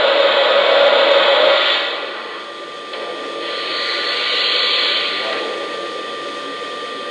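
Steam hissing from the onboard sound system of a Lionel Legacy PRR B6sb 0-6-0 steam locomotive model: a loud hiss that eases off about two seconds in, then a softer hiss that swells and fades again around the middle, over a faint steady tone.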